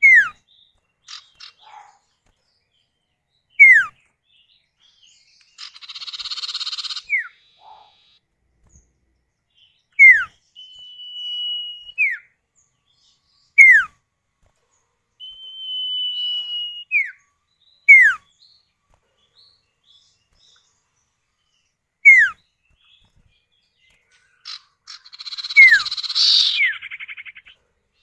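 Common ioras, male and female, calling back and forth: sharp downward-sliding whistles every few seconds, two long level whistles that drop away at the end, and two harsh chattering bursts.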